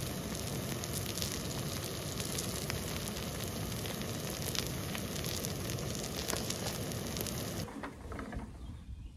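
Yakisoba sizzling on a hot griddle pan: a steady hiss with small pops. The sizzle drops away near the end.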